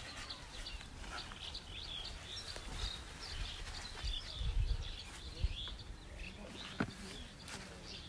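Small birds chirping and calling throughout, with a few dull low thumps around the middle and one sharp click near the end.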